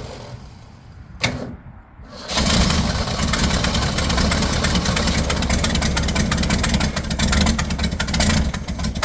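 1965 Ford Mustang engine being started: a sharp click a little over a second in, then after a short lull the engine cranks, catches and keeps running, rough and uneven.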